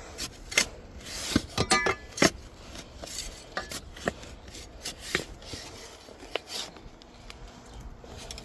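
Hand shovel digging in gritty soil: the metal blade scrapes through the dirt and knocks sharply, irregularly, on stones, with a short metallic clink about two seconds in.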